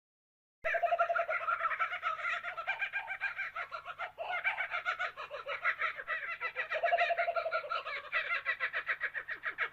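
Bird calls starting suddenly about half a second in: a fast, rhythmic chattering of many short repeated notes, which becomes more evenly pulsed near the end.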